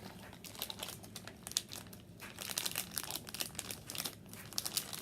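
Candy wrappers crinkling as they are handled and opened: many small, irregular crackles.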